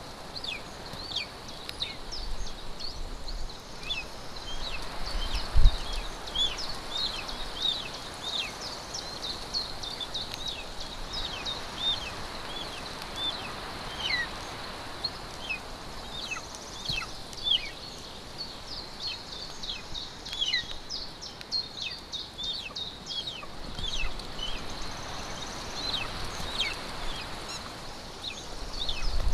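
Small forest birds chirping and singing with many short, high, falling notes over a steady outdoor background. There is a single low thump about six seconds in.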